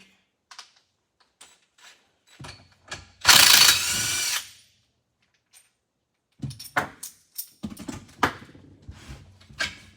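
A handheld power drill runs once for just over a second, about three seconds in, during removal of the pulley from a Briggs & Stratton engine's crankshaft. Scattered clinks and knocks of tools and metal parts come before and after it.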